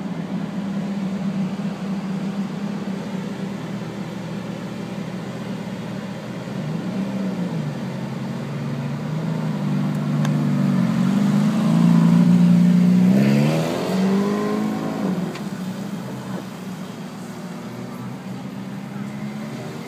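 Ferrari V8 engine running at low revs, then revving up and back down a few times about two-thirds of the way through as the car pulls away, before settling to a steadier drone.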